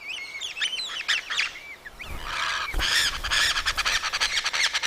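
Birds chirping with short, quick up-and-down notes; about two seconds in, a loud, harsh bird call takes over, a rapid rattling squawk of many quick pulses.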